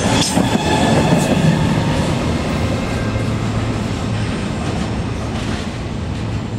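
Deutsche Bahn ICE high-speed train running past on the track beside the platform, its wheel-on-rail noise slowly fading as the end of the train draws away. A steady low hum is left from about halfway through.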